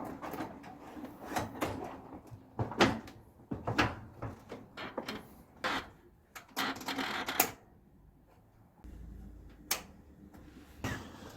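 Irregular clicks, knocks and rattles of hard parts being handled, with a denser scraping rattle about six to seven seconds in, then a quieter spell.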